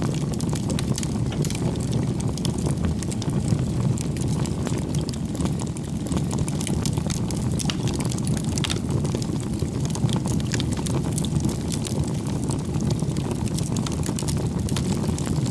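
Campfire burning: a steady low rumble of flames with scattered crackles from the burning wood.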